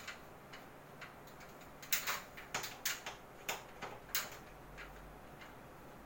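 Irregular sharp clicks and taps, a few at first and then a quick cluster of about a dozen in the middle, from the plastic casing of a split air conditioner's indoor unit being handled and unclipped.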